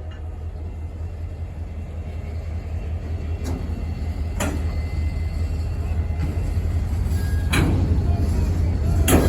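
Diesel locomotive of a CSX local freight train approaching, a low engine rumble growing steadily louder, with a few sharp clicks spaced through it.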